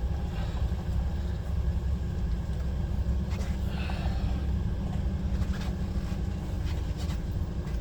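Heavy goods vehicle's diesel engine running, a steady low rumble heard from inside the cab, with a few faint clicks.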